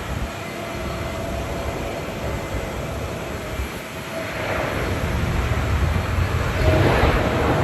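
Airbus A330-900 jet engines, Rolls-Royce Trent 7000s, running as the airliner comes in to land, growing louder from about four seconds in. Strong gusty wind rumbles on the microphone throughout.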